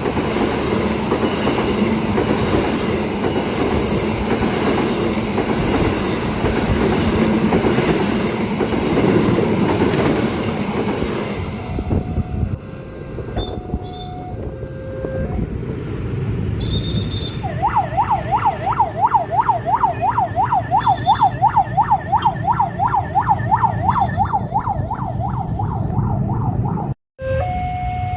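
A train running through the crossing, then fading after about twelve seconds. A few seconds later an electronic level-crossing alarm starts warbling quickly up and down, about three times a second.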